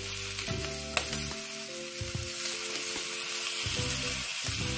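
Stuffed green bell peppers sizzling in oil in a nonstick frying pan while they are turned with metal tongs, with a sharp tap about a second in. A slow background melody plays along.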